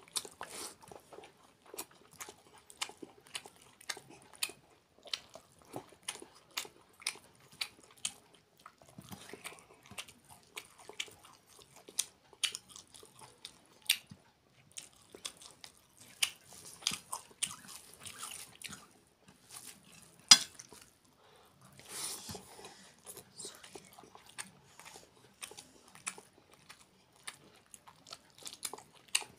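Close-up eating sounds: wet chewing and lip-smacking as rice mixed with curry is eaten by hand, in a dense run of short, irregular clicks, with one sharper click about two-thirds of the way through.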